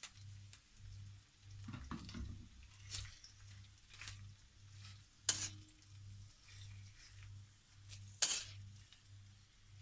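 Sliced bitter gourd frying in hot oil in a wok, sizzling, while a spoon stirs it and clinks against the pan; two sharper clinks stand out, about three seconds apart, and there is a brief clatter about two seconds in.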